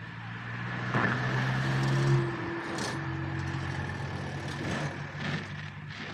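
A vehicle engine running with a steady low hum. It swells about a second in, peaks around two seconds, then carries on a little quieter until near the end, with a few faint clicks over it.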